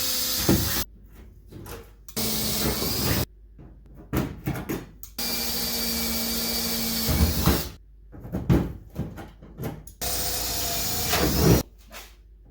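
A power tool run in four short bursts, each a steady hissing whine that starts and cuts off abruptly. Clattering knocks and taps of work on metal come between the bursts.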